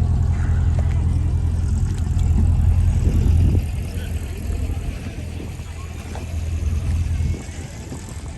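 A car engine running with a deep, steady low rumble that drops in loudness about three and a half seconds in and fades further near the end, as if the car is pulling away.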